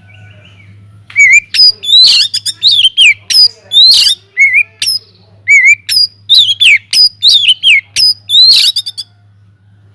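Oriental magpie-robin (kacer) singing a loud, rapid run of varied whistled notes that sweep up and down. The song starts about a second in and stops near the end, over a steady low hum.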